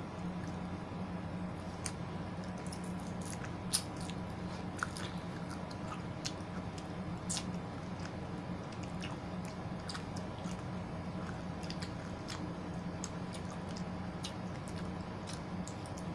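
Close-up biting and chewing of juicy yellow watermelon and pineapple, with wet crunches and squishes scattered through, the sharpest about four and five seconds in. A steady low hum runs underneath.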